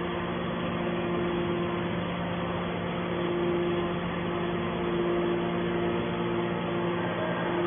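Hydraulic scrap baler's power unit running with a steady hum, a higher whine fading in and out over it.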